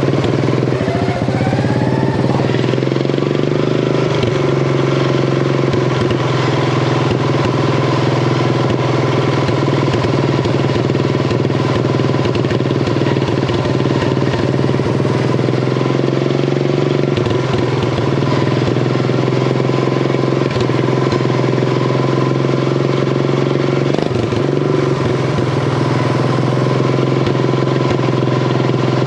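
Craftsman riding mower's engine, fitted with an open header, running hard under way. Its pitch rises over the first couple of seconds as it speeds up, then holds steady at speed.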